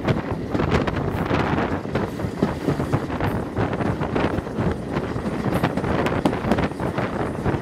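Wind buffeting a microphone held out of the carriage window of a moving train, over the train's running noise, with irregular clicks and knocks from the wheels on the track.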